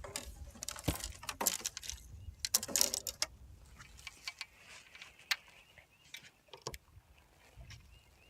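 Fishing gear being handled in a small boat: scattered faint clicks and short rattles, most of them in the first three seconds, with a few more later.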